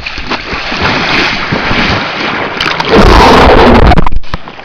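Sea water and wind noise on the microphone, with a very loud stretch of rushing noise about three seconds in that lasts about a second.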